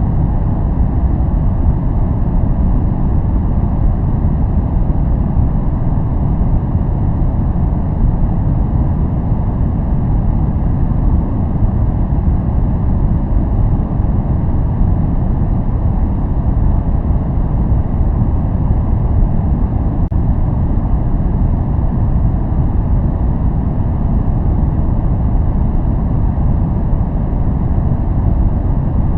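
Continuous white-noise track: an even, unchanging rushing hiss, heaviest in the low end so it sounds deep, like a rumble.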